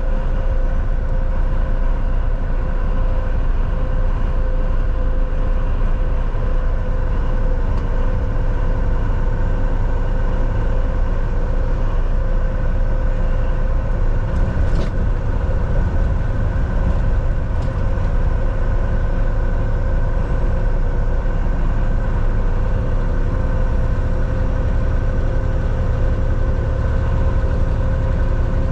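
Volvo VNL 760 semi-truck cruising at steady speed, heard from inside the cab: a continuous low engine and road rumble with a steady hum running through it.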